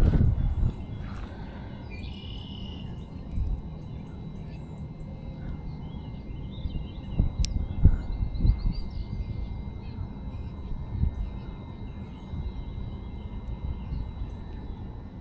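Outdoor ambience: a low rumble of wind on the microphone with several dull thumps, faint bird chirps, and a faint steady high whine.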